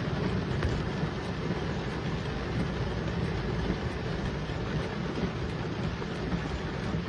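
Steady rushing noise of a heavy rainstorm, rain and wind with a low rumble.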